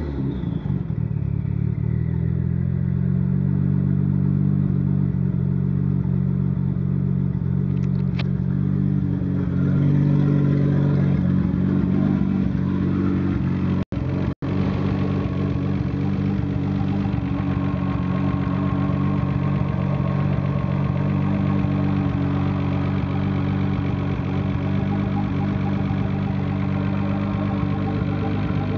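Nissan Skyline GT-R's RB26DETT twin-turbo straight-six idling steadily, the revs settling just as it begins. The sound cuts out twice very briefly about halfway.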